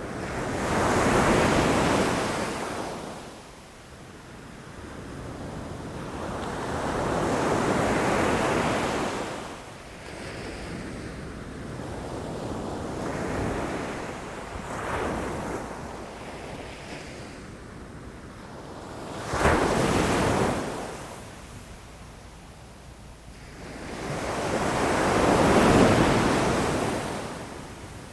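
Ocean waves crashing against rocks, surging and falling back about every six or seven seconds, with one sharper, more sudden crash about two-thirds of the way through.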